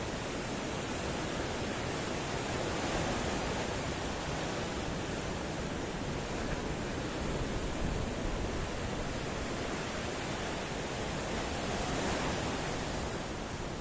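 Ocean surf: a continuous wash of waves, swelling gently every four or five seconds.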